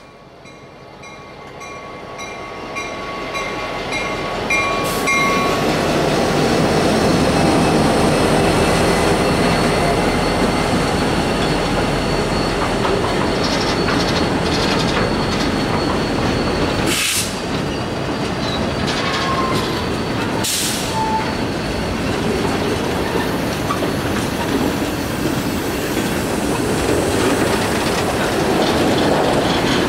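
Norfolk Southern freight train hauled by high-hood EMD GP50 and GP38-2 diesel locomotives passing close by. The sound grows louder over the first several seconds as the locomotives come up, then holds as a steady loud rumble of engines and steel wheels as the boxcars roll past. Two brief sharp wheel or coupler noises come about halfway through.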